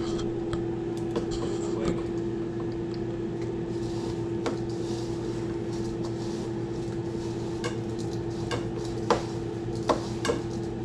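Utensils and dishes clicking and tapping while fish fillets are dipped in egg wash and coated in crushed chips, with a few sharper knocks near the end, over a steady hum.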